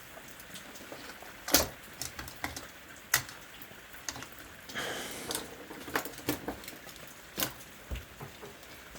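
Pens and pencils being handled on a desk: scattered light clicks and taps, with a brief scratchy sound about five seconds in.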